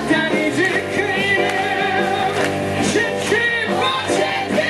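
A musical-theatre song: a voice sung over an instrumental accompaniment, holding and bending notes.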